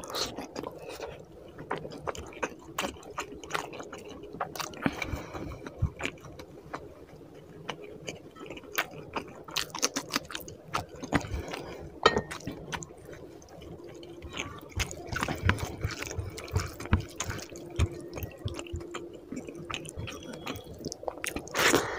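Close-miked wet eating sounds of rice and fish curry eaten by hand: chewing, lip smacks and squelching of gravy-soaked rice, with many short sharp clicks throughout.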